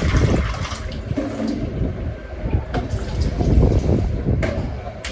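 Water running from a kitchen tap as fruit is rinsed under it, with a few light knocks from handling.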